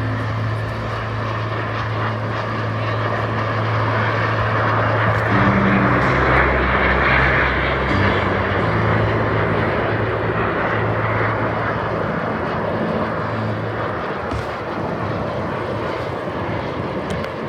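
Fixed-wing airplane flying past. Its engine noise swells to a peak about six to seven seconds in and then eases off.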